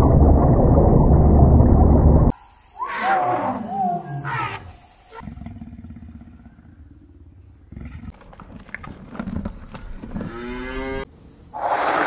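An edited run of wild animal calls. A loud low rumble fills the first two seconds, then whale whistles and squeals glide in pitch, then quieter lion growls, with a rising call near the end.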